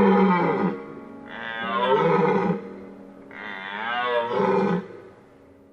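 A deer calling three times. Each is a long, loud call of more than a second with a wavering pitch. Soft background music plays under it.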